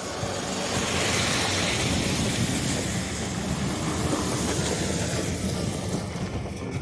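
Heavy logging truck engine running with a steady low rumble, under a broad rushing noise.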